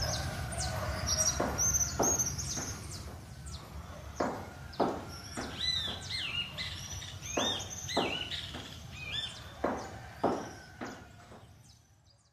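Birds chirping and calling in quick, varied short notes, some high and some sweeping downward, over a steady low background rumble. The sound fades out near the end.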